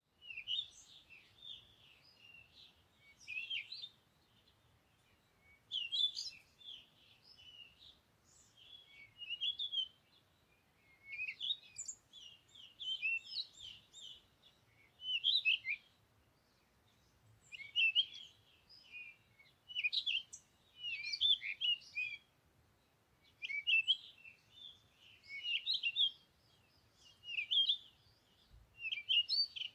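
A songbird singing: bursts of quick, high chirping notes in short phrases, one every two to three seconds, with brief pauses between.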